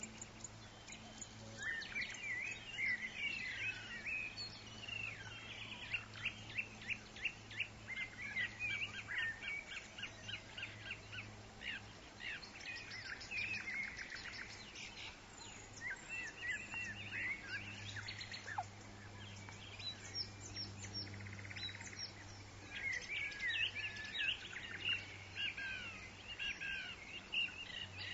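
Several birds calling at once in forest: quick repeated chirps and trills, busiest near the start and the end, over a steady faint low hum.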